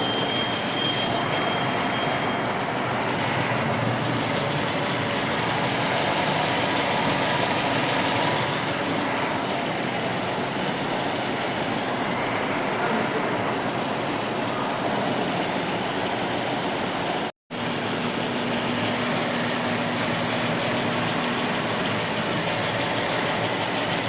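Geely Emgrand's gasoline engine idling steadily, a constant mechanical running sound with a broad hiss over it. The sound cuts out for a split second about two-thirds of the way through.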